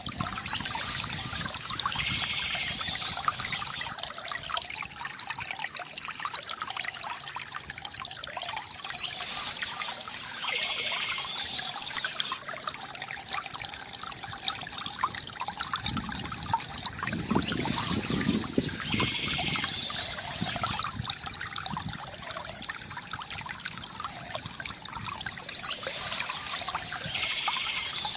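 Small stream trickling and gurgling over stones, swelling to a deeper gurgle about two-thirds of the way through. A short high trill from a songbird comes back about every eight to nine seconds, four times in all.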